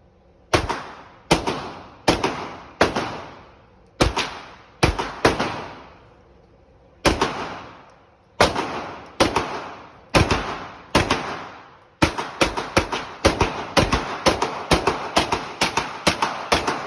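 Glock pistol firing, shot after shot, each report followed by a short ringing decay. The shots come at a steady pace of about one a second with a brief pause partway through, then speed up to a rapid string of about three shots a second in the last few seconds.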